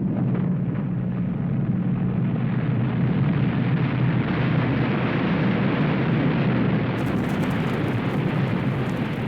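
Avalanche: a continuous deep rumbling roar of snow sliding downslope. It grows fuller and hissier after the first couple of seconds, with crackling near the end.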